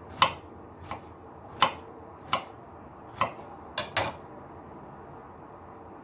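Kitchenware being handled: about seven short, sharp clinks and knocks, irregularly spaced over about four seconds, with two close together near the end.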